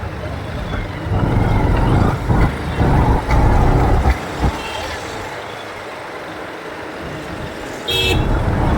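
Road noise heard from a moving motorbike in city traffic: a low rumble of engines and wind that swells loud for a few seconds, eases off, then rises again. A brief high-pitched tone, like a horn or beep, sounds near the end.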